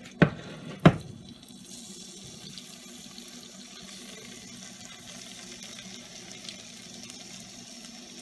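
Cornflour-coated chicken pieces shallow frying in oil in a pan, sizzling steadily, after two sharp knocks in the first second as the pieces go in.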